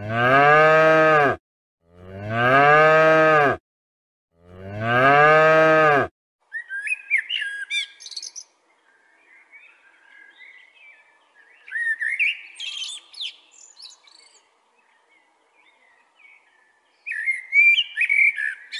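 Cattle mooing three times, each a long, low call of about a second and a half. Then a male common blackbird sings three spells of fluting phrases ending in high twittering, with pauses between them.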